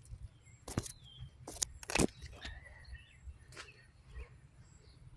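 Birds chirping with a few short falling calls, over a low steady outdoor rumble, while several sharp clicks or snips land in the first few seconds, the loudest about two seconds in.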